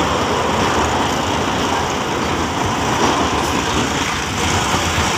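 Passenger train in motion, heard from inside a carriage: a loud, steady rush of wheel and running noise.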